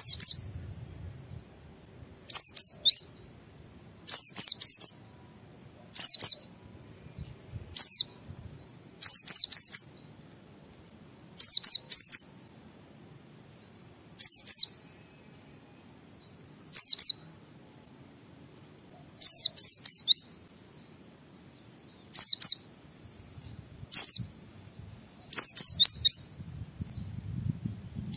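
White-eye (pleci) singing: short, high-pitched phrases of quick downward-sweeping notes, repeated about every two seconds, around a dozen times.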